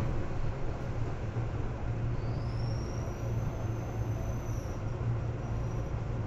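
Seibu 2000 series electric train running, heard from inside the car: a steady low rumble. About two seconds in, a thin high whine rises and then holds, fading out near five seconds before a brief return.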